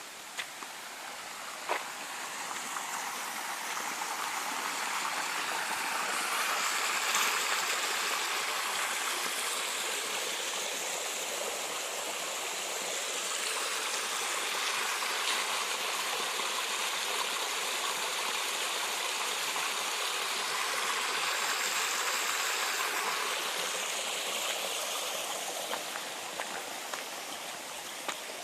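Running water rushing steadily, growing a little louder over the first several seconds.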